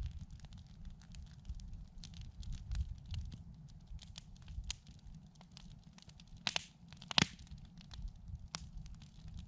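Campfire wood crackling, with irregular sharp pops; two louder pops come about two-thirds of the way through.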